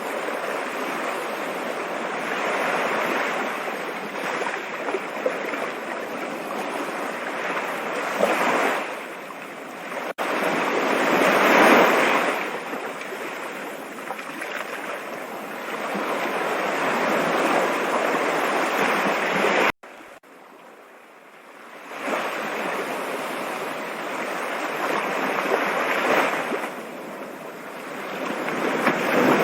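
Rushing water, a steady hiss that swells and fades; it drops away suddenly about twenty seconds in and builds back up over the next couple of seconds.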